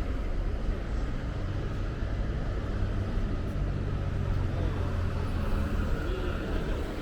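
Steady low rumble of a passenger vehicle, with a low hum about the middle of the stretch.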